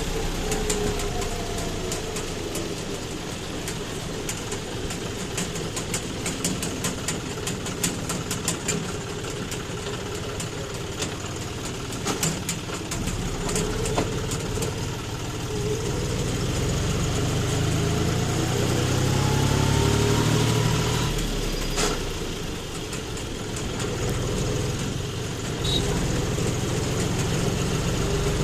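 John Deere tractor engine running steadily. Its pitch drops in the first couple of seconds, then climbs again as it speeds up from about halfway, loudest a little past two-thirds through. There is rapid rattling and clicking in the first third.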